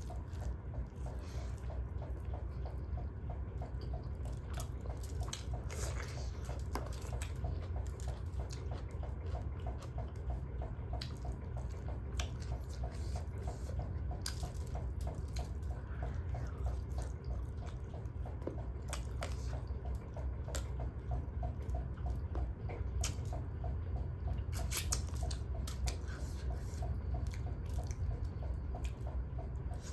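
Eating sounds: chewing and wet mouth noises with scattered short clicks, over a steady low hum.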